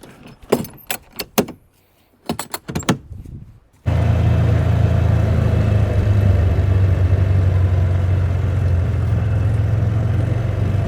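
A few sharp clicks and knocks, then a vehicle engine that comes in abruptly about four seconds in and runs steadily.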